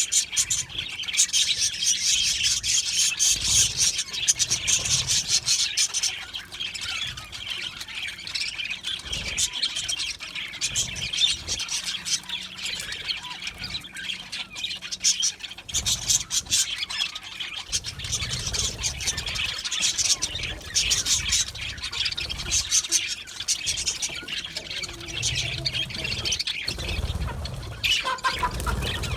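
A flock of budgerigars chattering, chirping and squawking continuously, many birds calling over one another.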